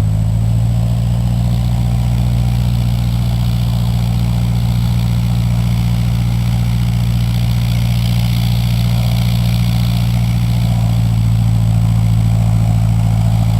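Cessna 152's four-cylinder Lycoming piston engine and propeller running at a steady, unchanging drone.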